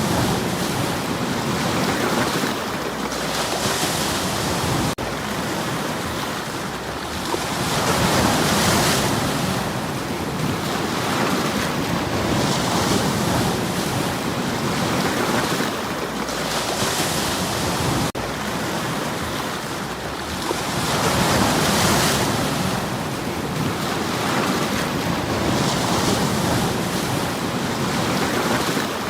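Sea waves washing in against a stony shore, each wave swelling and hissing back about every four to five seconds in a steady rush of surf.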